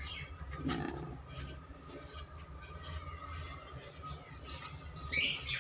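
Small birds chirping on and off over a low steady hum, with a louder, higher chirp shortly before the end.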